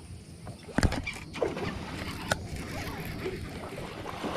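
Knocks and handling noise in a fishing boat: a sharp, loud thump about a second in and a second knock a little past the middle, over a steady rustle.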